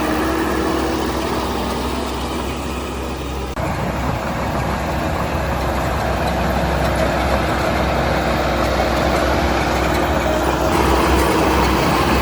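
Heavy diesel construction machine engine running steadily; the sound changes abruptly about three and a half seconds in and grows a little louder toward the end.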